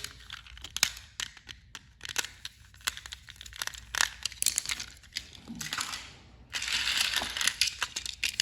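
Handling noise from plastic toy train engines: scattered clicks and knocks with crinkly rustling, and a longer, denser rustle near the end.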